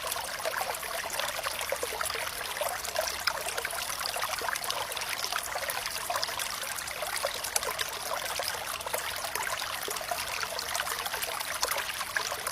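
Running water trickling and splashing steadily in a small stream, full of small splashes, with little deep rumble.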